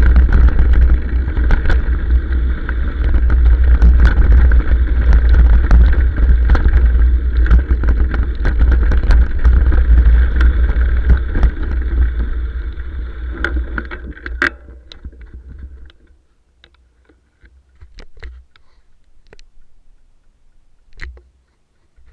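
Heavy wind buffeting on a motorcycle-mounted microphone during a downhill ride, with a steady noisy hum and frequent short clicks and knocks. The noise dies away about fourteen to sixteen seconds in as the bike slows, leaving a few scattered clicks.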